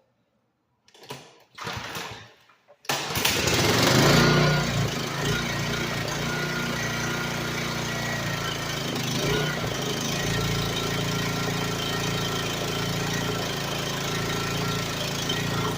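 Honda 13.5 hp engine on a log splitter pull-started with its recoil starter. It is cranked briefly about a second in, catches on the first pull about three seconds in with a quick rise in speed, then runs steadily.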